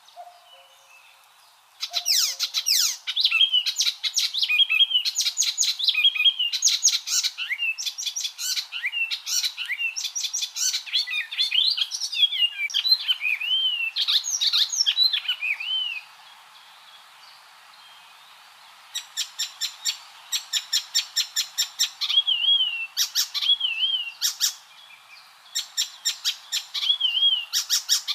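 Icterine warbler singing: a fast, varied run of chirps, whistles and gliding notes, then after a pause of about three seconds, rapid strings of repeated notes alternating with short whistled phrases.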